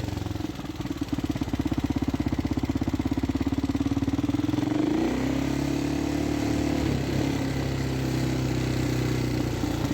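Motorcycle engine running, its note climbing gently for the first few seconds, then dropping to a lower, steady run about five seconds in.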